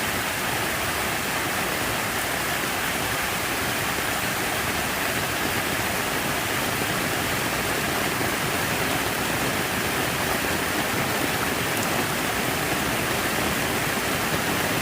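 Steady rush of falling water: an even, unbroken hiss that holds at one level throughout.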